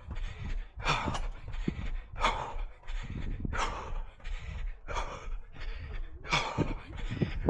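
Runner's heavy breathing, hard and rhythmic, roughly three breaths every two seconds.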